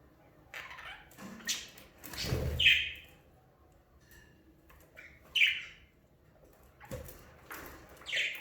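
Budgerigars giving short, harsh chirping squawks, a loud call roughly every two to three seconds, with softer chatter between and a brief rustle about two seconds in.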